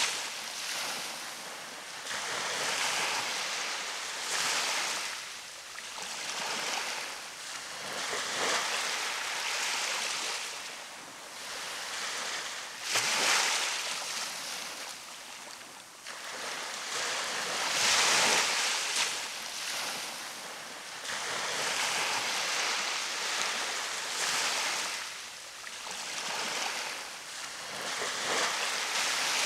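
Gulf of Mexico surf breaking and washing up a sandy beach, one swell of hiss every few seconds, the biggest two about halfway through.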